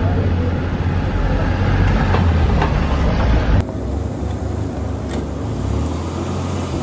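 DeLorean DMC-12's 2.8-litre V6 engine running at low speed as the car moves off, a steady low hum. About three and a half seconds in the sound drops abruptly and turns quieter and thinner.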